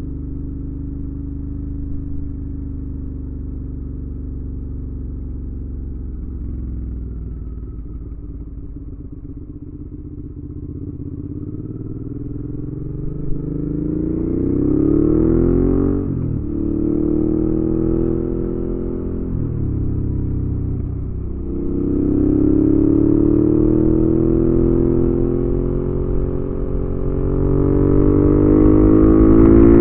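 2019 Suzuki V-Strom 650's 645 cc V-twin running through an aftermarket Delkevic slip-on exhaust on the road. It holds a steady note for about twelve seconds, then accelerates, the pitch rising and dropping sharply at each of several upshifts and growing louder.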